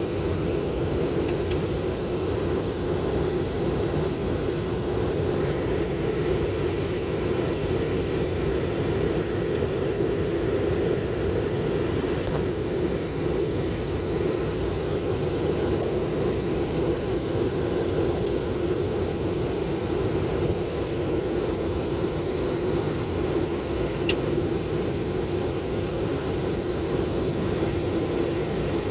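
Steady engine and airflow noise inside a passenger airliner's cabin in flight, with a single sharp click about three-quarters of the way through.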